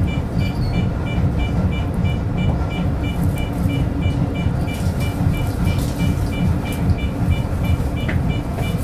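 Tōyō Rapid Railway commuter train running slowly along an underground platform, heard from inside the driver's cab: a steady low running rumble. A rapid electronic beep on two pitches repeats evenly over it.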